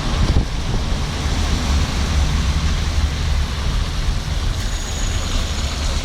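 Steady low vehicle engine hum with a continuous hiss of traffic on a wet road in the rain.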